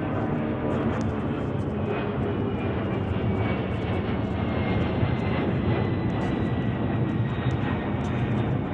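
Airplane engines running loud and steady, a dense drone with a thin whine that slowly drops in pitch.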